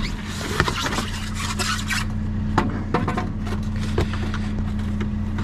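Junk being shifted and rummaged in a dumpster: rustling and metallic clinks with several sharp knocks, over a steady low engine hum.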